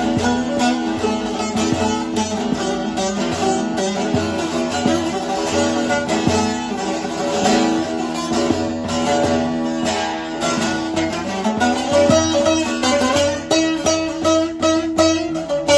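Long-neck bağlama (saz) with a carved mulberry bowl and spruce top, played with a plectrum: a fast melody of rapid strokes over ringing steady drone notes.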